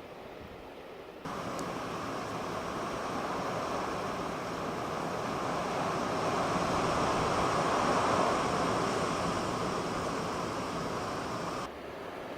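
Strong storm wind, a loud steady rush that starts abruptly about a second in, swells toward the middle and cuts off suddenly near the end.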